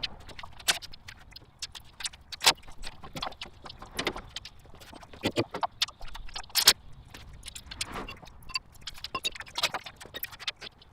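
Metal tools and engine parts clinking and clanking in quick, irregular succession, during work to remove the engine.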